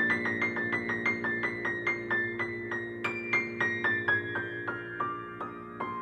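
Calm background piano music: a quick run of evenly repeated high notes over a held low chord, the melody stepping downward from about halfway.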